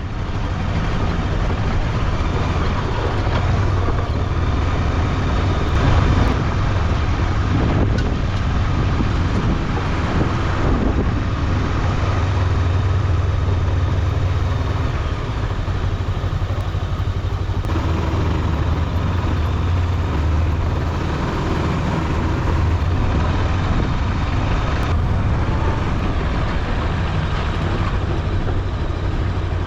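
Macbor XR5 motorcycle ridden at steady road speed, its engine running under a heavy rush of wind over the microphone.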